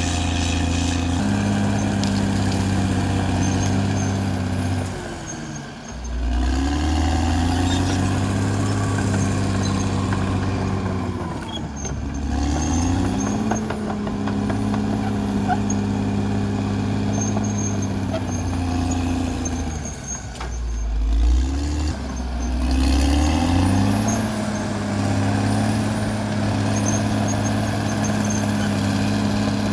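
Caterpillar D6R XL bulldozer's diesel engine running hard, its speed sagging and then climbing back up three times as the load comes on and eases off.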